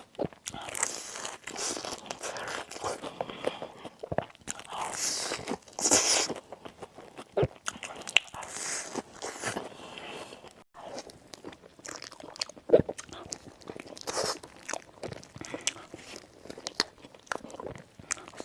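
Close-miked crunching as crisp food is bitten and chewed, with irregular bursts of crackly crunches and a few louder bites.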